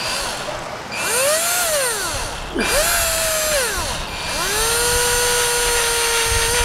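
Power drill run in three trigger pulls, the motor whine rising in pitch as it speeds up and dropping as it is released; the third run is held at steady speed for about two seconds.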